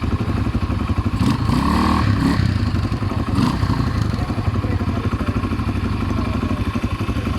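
All-terrain vehicle (ATV) engine running steadily while riding, with a few brief knocks and clatters from the trail.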